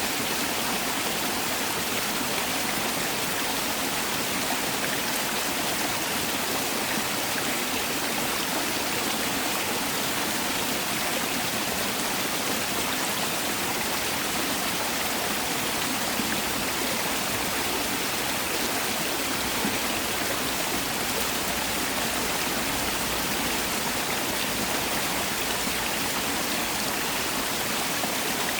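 Mountain valley stream rushing steadily over rocks, a continuous even rush of water.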